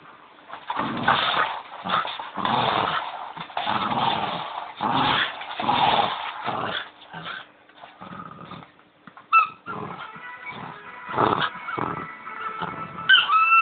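A Bichon dog growling in play in repeated bursts while mauling a squeaky toy bone. The toy's squeaker gives short, high squeaks about nine seconds in and again near the end.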